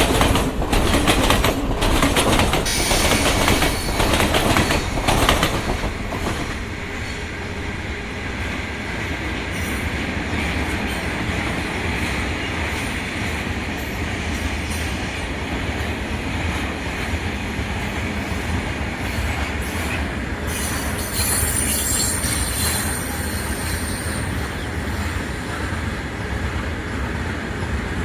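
Indian Railways freight train of tank wagons rolling past. Rapid wheel clacks over the rail joints for the first six seconds or so, then a steady rolling rumble with a thin, high wheel squeal that grows for a few seconds past the middle.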